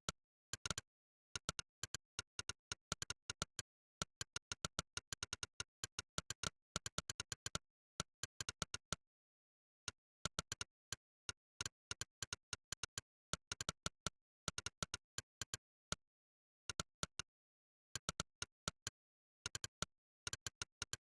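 Monkeytype's 'click' typing sound effect: a short, sharp click for each keystroke, coming in quick runs of typing broken by brief pauses, with dead silence between the clicks.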